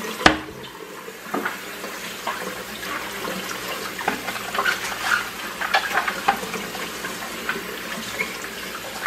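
Kitchen faucet running steadily into a stainless steel sink while a black plastic canister-filter media tray is rinsed under the stream, with small scattered knocks and clatter from handling. One sharp knock near the start.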